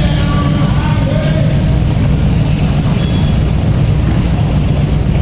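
Vintage race car engine running steadily, loud and low-pitched. Voices can be heard faintly over it in the first second or so.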